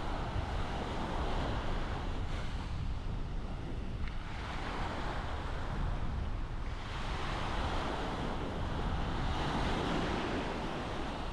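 Surf washing up a sandy beach, swelling and receding a few times, with wind rumbling on the microphone.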